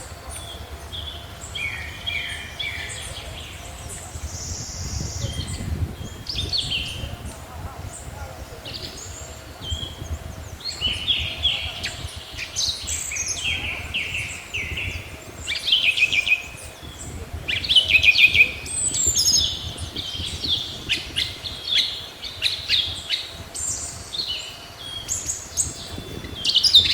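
Several small birds chirping and trilling in short, overlapping calls, busiest and loudest a little past the middle, over a low background rumble.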